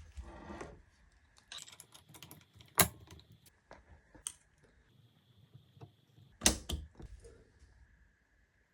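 Small metal engine parts being handled and set down: light clicks and rattles, with two sharp metallic clicks about three seconds in and again about six and a half seconds in.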